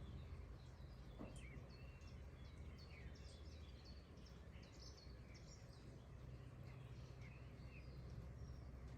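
Faint outdoor ambience: small birds chirping and whistling in short, scattered calls over a low, steady background rumble.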